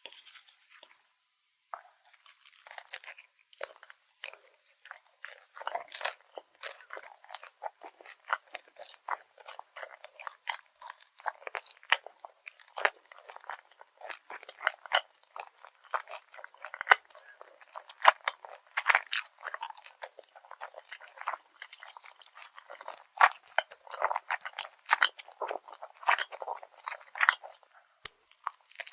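Close-miked chewing of grilled garae-tteok, the Korean rice cake bar, with grain syrup: the toasted crust crunching in a dense run of quick crackles, after a short pause near the start.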